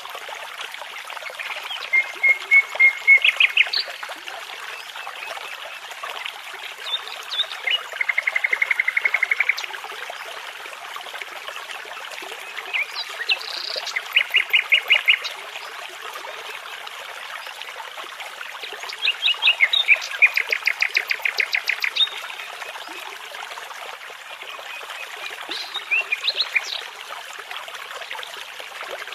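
A nightingale singing in short phrases of rapid repeated notes and trills, about five phrases with pauses of a few seconds between them, over the steady rush of a babbling brook.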